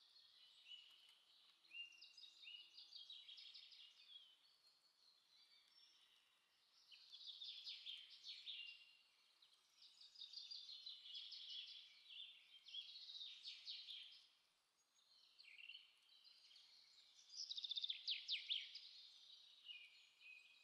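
Faint wild birdsong: several birds chirping and trilling on and off, loudest in a burst of rapid trills near the end.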